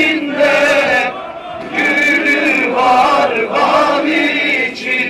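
A crowd of voices chanting in unison, in long sung-out phrases with short breaks between them.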